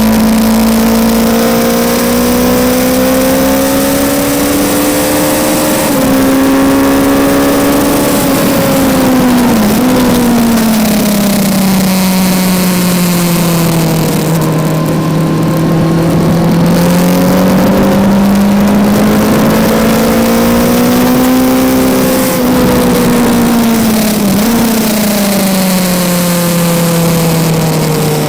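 2019 Kawasaki Z900's 948 cc inline-four engine heard from onboard at track speed. The revs climb and fall over several seconds at a time as it accelerates and slows for corners, with brief dips at gear changes, over steady wind noise.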